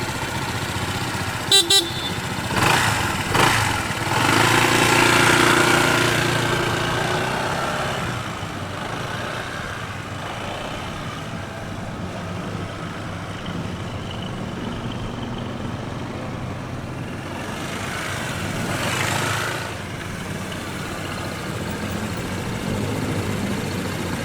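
Street traffic with vehicles passing by twice. Two sharp clicks come near the start, and a horn sounds about four to eight seconds in.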